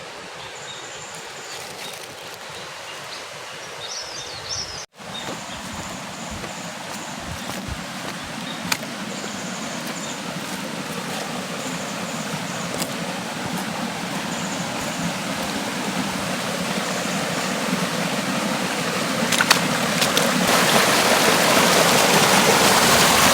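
Rushing water of a mountain stream, a steady hiss that grows louder and louder as it is approached, with faint high chirps over it.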